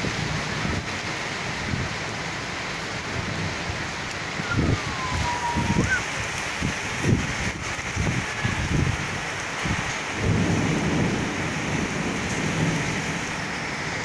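Heavy rain pouring steadily on a street and parked cars, a constant hiss, with low rumbles swelling from about four seconds in and recurring through the second half.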